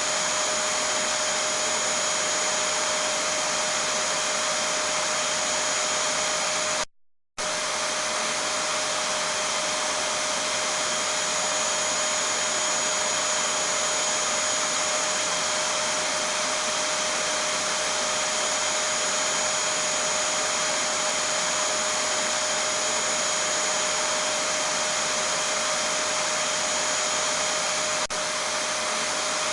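Vacuum cleaner running steadily: an even rushing hiss of air with a steady motor whine on top. It cuts out completely for about half a second about seven seconds in, then resumes unchanged.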